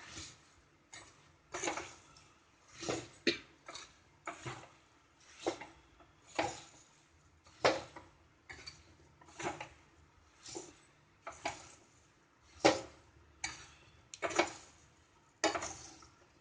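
A spoon stirring puffed rice in a cooking pan, scraping and knocking against the pan in sharp strokes about once a second, unevenly spaced.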